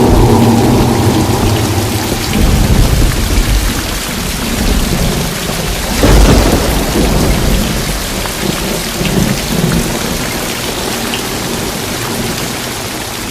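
Loud, steady rush of water noise with deep rumbles that swell about two seconds in and again around six seconds; music fades out at the start.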